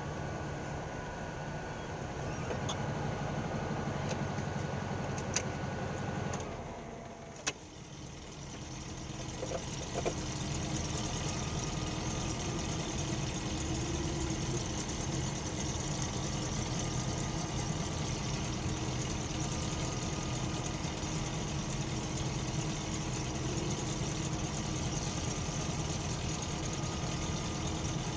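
A car's engine idling steadily, heard from inside the stationary car, with a few sharp clicks. About a quarter of the way through the sound drops out briefly and comes back to the same steady idle.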